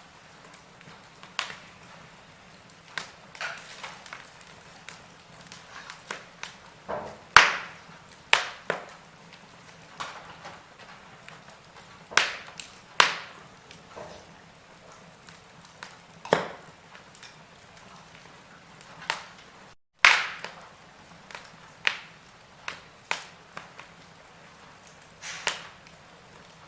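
Wood fire in a fireplace crackling, with irregular sharp pops of varying strength over a soft steady hiss. The sound drops out for an instant about three-quarters of the way through.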